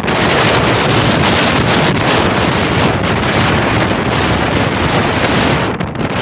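Typhoon wind buffeting the microphone, over heavy surf crashing against a concrete tetrapod breakwater. It dips briefly near the end.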